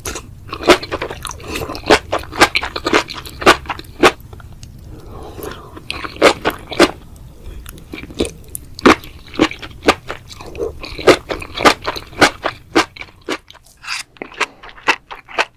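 Close-miked chewing of spicy enoki mushrooms: a rapid, irregular run of crisp crunching clicks, with brief pauses about five seconds in and near the end.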